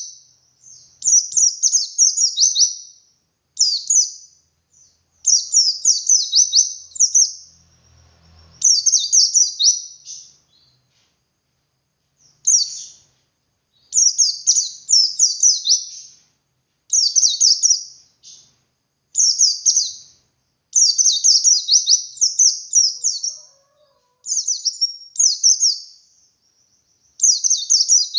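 White-eye (pleci) singing in the long 'ngalas' style: phrases of rapid, high-pitched twittering notes, each lasting one to two seconds, repeated with short pauses between.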